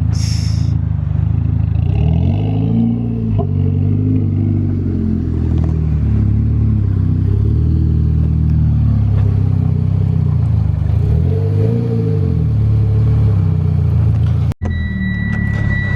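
Car engine running, its pitch rising and falling in slow swells. There is a brief hiss at the start, and after a sudden break near the end a steady high beep.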